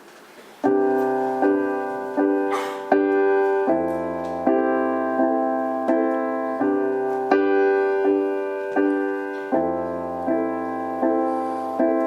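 Piano playing a song's introduction: chords struck in a steady rhythm, a new chord about every three quarters of a second, each ringing on. It starts under a second in, after a moment of quiet.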